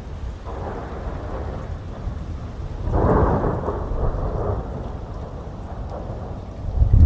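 Thunder rumbling through steady heavy rain, swelling loudest about three seconds in. A deep, low thunder roll surges up right at the end.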